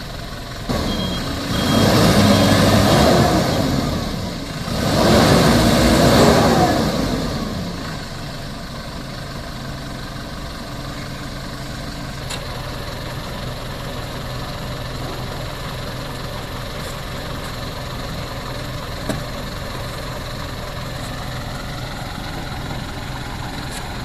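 Mitsubishi Fuso Canter dump truck's engine revved up twice, the pitch rising and falling with each surge, then settling to a steady idle.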